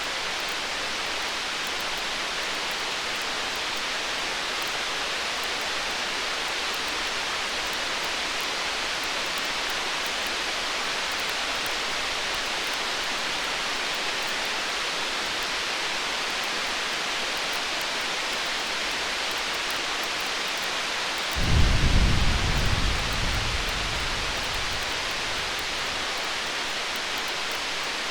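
A single rumble of distant thunder, starting suddenly about three-quarters of the way in and dying away over a few seconds, over a steady hiss.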